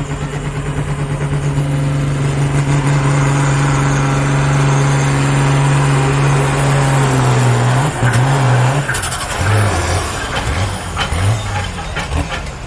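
Pulling tractor's diesel engine at full throttle under load, dragging the sled with a steady, even pitch. About seven and a half seconds in, the driver comes off the power: the engine drops and runs unevenly at lower revs.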